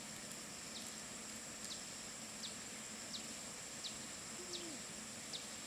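A bird repeating a short, high, falling call about every 0.7 seconds over a steady, high-pitched insect drone.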